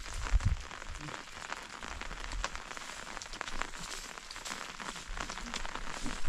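Heavy rain falling, a steady hiss full of individual drops ticking on a surface, with one low thump about half a second in.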